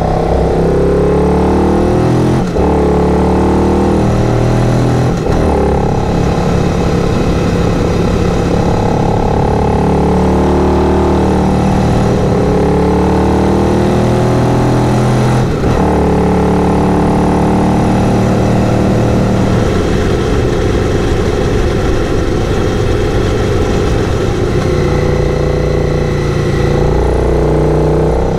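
Adventure motorcycle's twin-cylinder engine under way, rising in pitch as it accelerates, with brief breaks for gear changes a few times.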